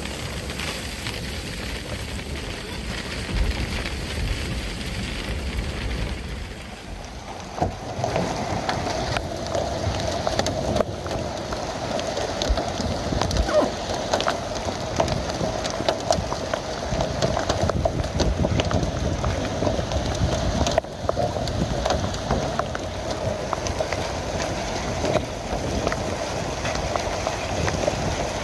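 Rain falling and striking a hard surface, with many separate drop hits over a steady hiss. A steady hum joins about eight seconds in.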